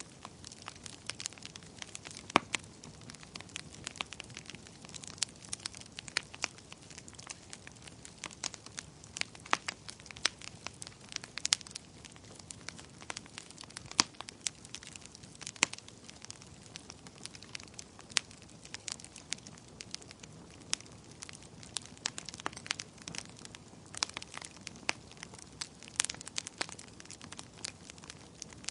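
Wood fire crackling: frequent irregular sharp pops and snaps over a soft steady hiss.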